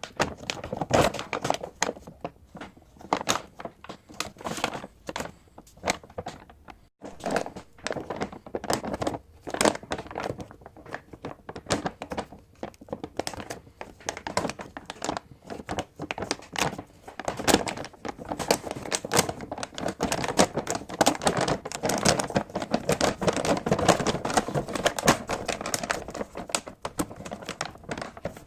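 Packaging being handled and opened by hand: irregular crinkling and rustling with sharp clicks and some tearing, busier and more continuous in the second half.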